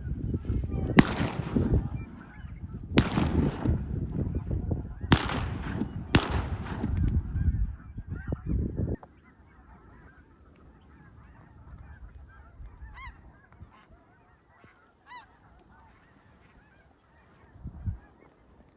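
A large flock of snow geese calling, a dense loud clamour broken by several sharp cracks in the first half. About nine seconds in it cuts off abruptly, leaving only a few faint, scattered goose calls.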